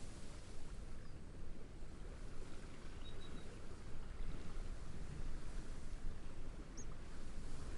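Steady outdoor wash of wind through reeds and gentle sea waves, rising and falling softly. Two faint, short bird chirps, about three seconds in and near the end.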